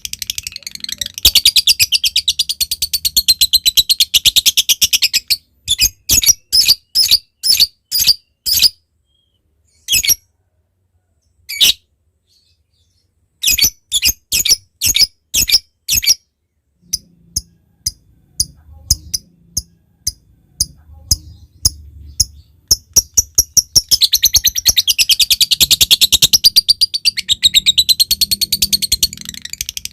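Lovebird calling: a long, fast chattering trill ("ngekek") breaks off after about five seconds into a run of separate sharp ticking chirps ("ngetik"), a few a second with short pauses. The ticks quicken and run back into the long chattering trill about six seconds before the end.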